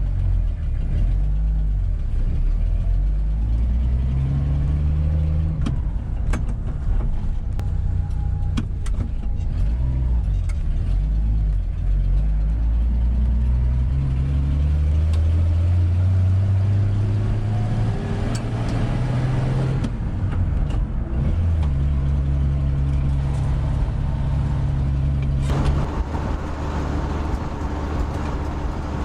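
1978 Ford F150 pickup's engine under way on the road, its pitch climbing and falling again several times as it pulls and shifts. Light clicks and rattles come through in the middle, and the sound changes suddenly about 25 seconds in.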